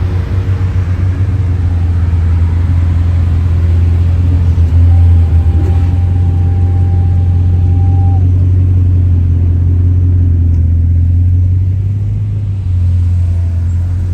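Car engine running at low revs with a deep, steady rumble.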